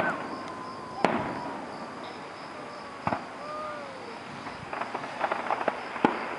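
Fireworks going off: single sharp bangs about a second in, about three seconds in and about six seconds in, with a burst of rapid crackling just before the last bang.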